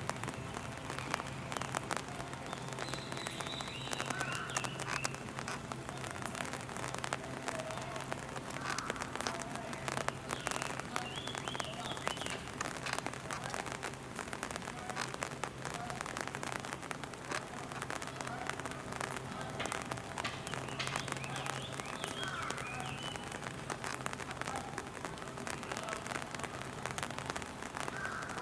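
Steady rain pattering, a dense spread of small drop ticks over a low steady hum, with a few faint distant calls or voices now and then.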